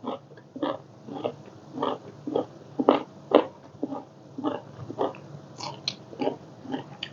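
Close-up chewing: wet, smacking mouth sounds about twice a second as a mouthful of food is chewed.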